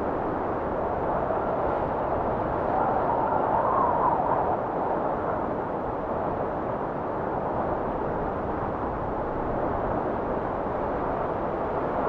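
Blizzard wind blowing steadily: a dense rushing noise with a higher whistle on top that swells and fades, strongest about three to four seconds in.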